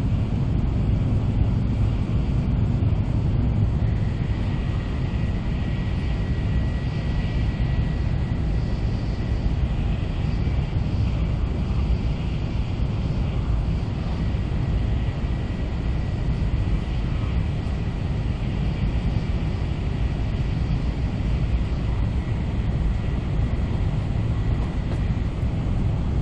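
Cabin running noise of an N700A Shinkansen train at speed: a steady deep rumble, with a faint high tone held through most of the middle.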